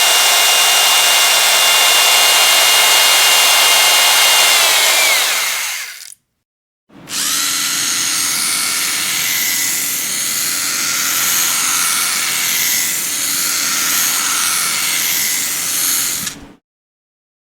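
Electric power drill running steadily at full speed, then winding down and stopping about six seconds in. After a short silence it starts again and runs for about nine seconds, then cuts off suddenly.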